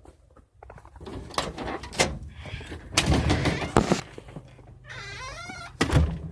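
A door being handled, with knocks and thuds and a heavy thump near the end, and a short wavering whine like a dog's about five seconds in.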